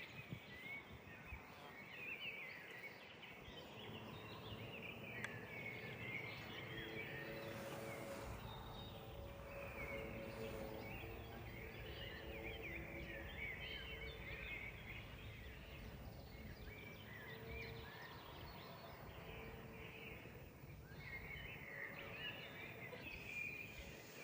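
Small songbirds chirping and twittering, many short overlapping calls, faint. Through the middle a faint low drone with a few steady tones rises and fades again.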